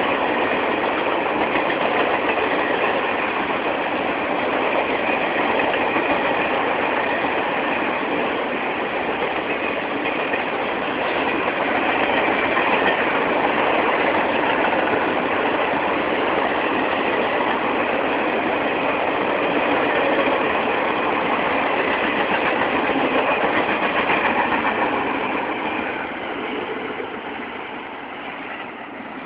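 Triple Crown RoadRailer trailers rolling past on their rail bogies: steady wheel-on-rail noise that fades over the last few seconds.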